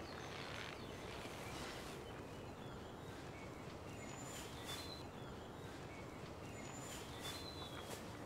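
Outdoor ambience of a park: a steady low hiss of background noise with a few short, high bird chirps, a pair about four seconds in and another pair about seven seconds in.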